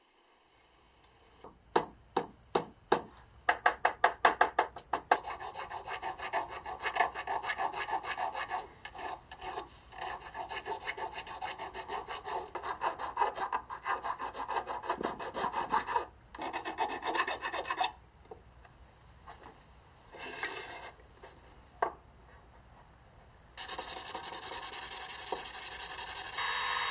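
Hand file rasping back and forth across a wooden axe handle and its thin metal inlay. First come separate strokes, then quick continuous strokes for about twelve seconds. After a short pause, steady sanding of the handle near the end.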